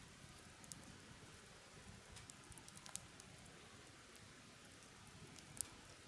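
Wood campfire crackling faintly: scattered sharp pops, the loudest about halfway through and another near the end, over a soft steady hiss.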